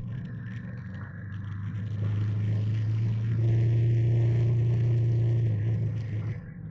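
Trail motorbike engine running at steady revs, pulling harder from about two seconds in and easing off sharply near the end.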